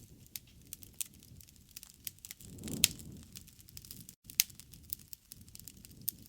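Wood fire crackling, with irregular sharp pops over a low rumble of the burning fire; two pops stand out as the loudest near the middle. The sound cuts out for an instant just after four seconds in.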